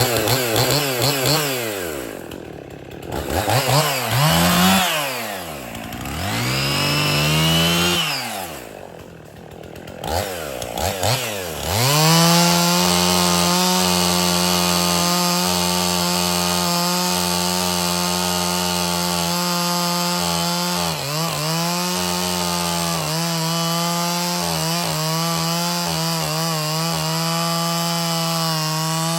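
Chainsaw on an Alaskan chainsaw mill, revved up and down several times. About twelve seconds in it settles at a steady high pitch, running at full throttle through the cut along the log, with a brief dip a little past halfway.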